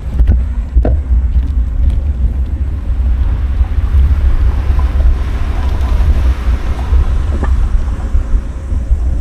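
Wind buffeting an action camera's microphone while cycling: a loud, steady, fluttering low rumble, with fainter road noise above it.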